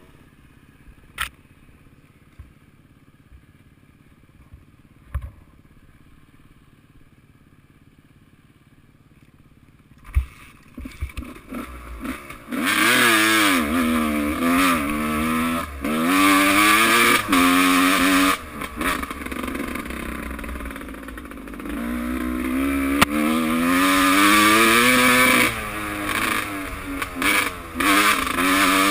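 Motocross bike engines revving hard, their pitch swinging up and down with the throttle. They come in about ten seconds in after a quiet stretch with a few sharp knocks, and are loud from about halfway on.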